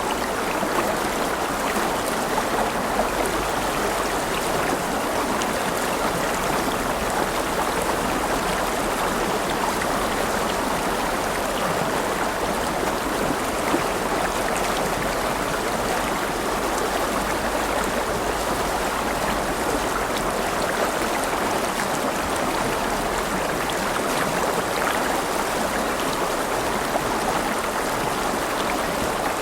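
River water flowing and splashing, a steady rushing babble with small splashes.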